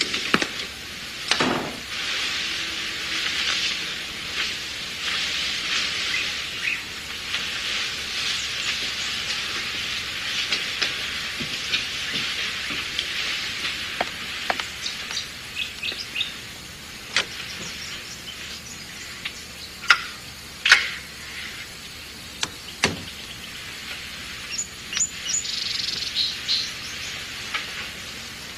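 Birds chirping over a steady high hiss, broken by a few sharp clicks or knocks, the loudest about twenty seconds in.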